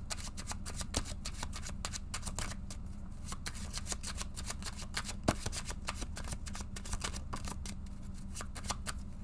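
A deck of tarot cards being shuffled by hand: a fast, continuous run of crisp card riffles and clicks, over a low steady hum.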